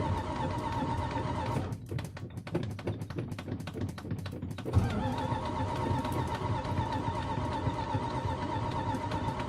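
Engine running steadily with a whine, cutting out after about a second and a half into a few seconds of irregular clicking and sputtering, then catching again with a thump and running steadily: a hard-starting engine.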